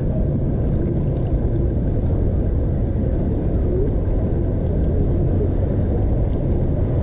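Steady low rumble of wind buffeting a chest-mounted GoPro's microphone on a moving bicycle, mixed with the bike's rolling noise.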